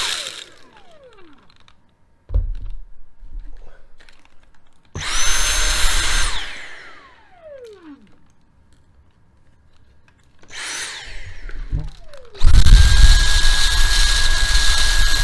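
Dyson cordless vacuum cleaner switched on in short bursts to suck up laundry scent booster. Its motor whine spins up and then winds down with a falling pitch: once about five seconds in for under two seconds, briefly near eleven seconds, then steadily from about twelve and a half seconds on.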